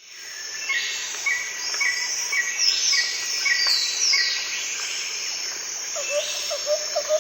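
Several birds calling at once. Short chirps repeat about twice a second, under high falling whistled notes. From about six seconds in, a lower short note repeats about twice a second.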